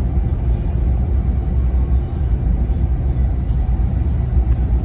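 Steady low rumble of engine and road noise inside the cab of a moving truck.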